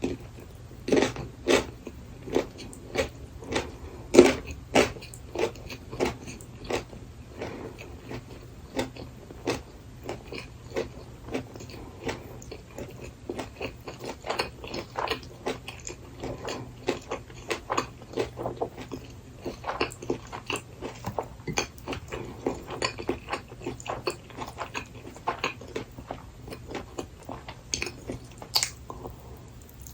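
Close-up chewing of gimbap (seaweed-wrapped rice roll with seasoned burdock root), a steady run of moist chews and small crunches about two a second. The chews are loudest in the first few seconds, then come softer and quicker, with one sharper click near the end.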